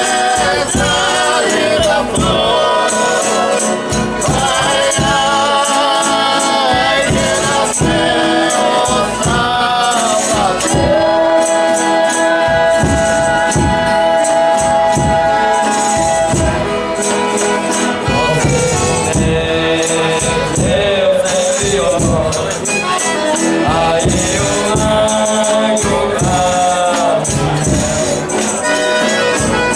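Folia de Reis singing: several voices in long held, wavering notes over a steady beat of tambourines and other percussion.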